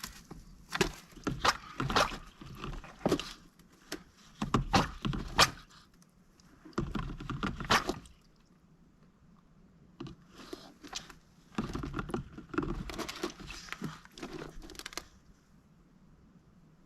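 A mallard duck moving about in its indoor pen, making irregular knocks, taps and scuffles in two spells, one from about a second in to about eight seconds and another from about ten to fifteen seconds.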